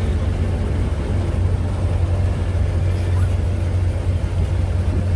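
Steady low engine rumble and running noise of a small tourist train under way, heard from on board.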